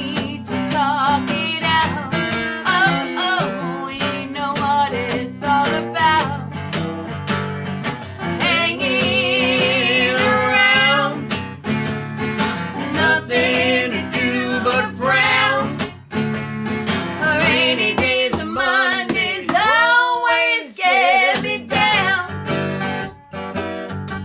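Acoustic guitar strummed and picked, with a wavering melody line over it from about a third of the way in and a swooping run near the end.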